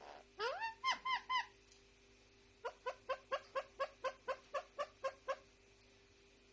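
Indian ringneck parakeet calling: a few rising squawks about half a second in, then a quick run of about a dozen short, sharp calls at roughly four a second.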